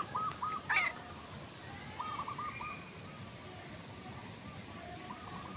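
A bird calling in the background: quick runs of short, same-pitched notes, about five a second. One run ends just under a second in with a brief rising chirp, another comes about two seconds in, and a fainter one near the end.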